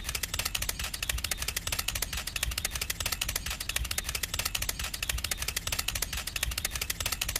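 Small motor and gearing of a homemade toy mini tractor running, with a rapid, even clicking of about a dozen clicks a second over a low hum.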